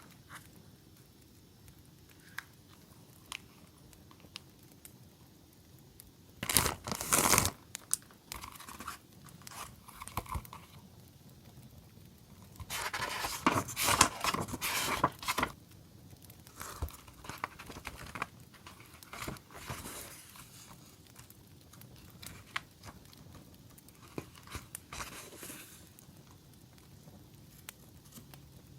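Paper stickers and packaging being handled: rustling, crinkling and tearing of paper, with two louder bursts about 7 and 14 seconds in and faint scattered ticks between.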